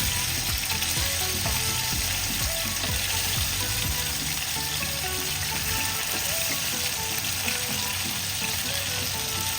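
Green-masala-marinated chicken pieces sizzling steadily as they shallow-fry in a little oil in a small pan.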